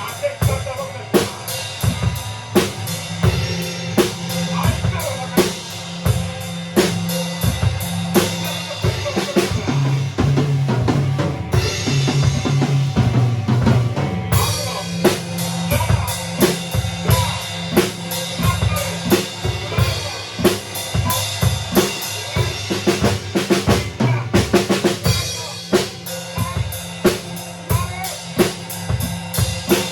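A band playing live: a drum kit beating out a steady rhythm of kick, snare and rimshot hits over sustained low bass notes. The bright high end drops away for about three seconds midway, then the full kit returns.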